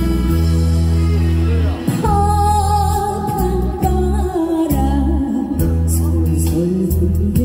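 Music: a woman singing over instrumental accompaniment with a heavy bass. Her voice comes in about two seconds in with a wavering, held line.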